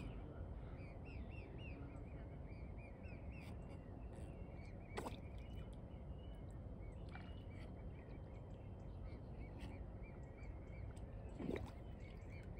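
Faint bird calls: runs of short, high peeps at about four or five a second, and two louder single calls, about five seconds in and near the end, over a steady low rumble.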